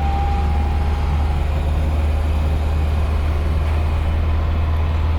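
Nissan 240SX engine running steadily with a deep, even low rumble through an exhaust with a hole blown in it.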